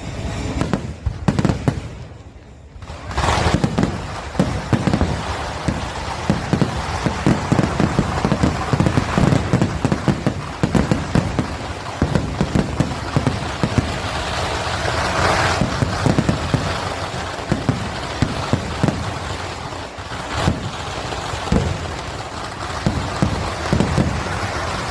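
Fireworks going off: a few separate bangs, then from about three seconds in a dense, continuous barrage of rapid bangs and crackling.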